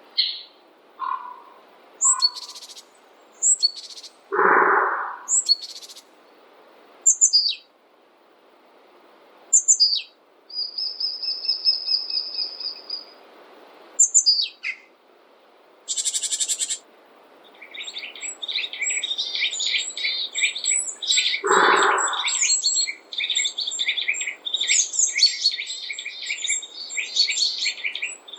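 Several songbirds calling: scattered short chirps and whistles, a lower call heard twice, then a fast, continuous chattering song from about two-thirds of the way in.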